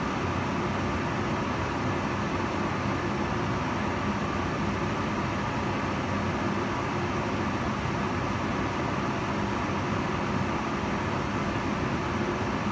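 Kitchen range hood fan running steadily: an even rushing of air with a low hum, unchanging throughout.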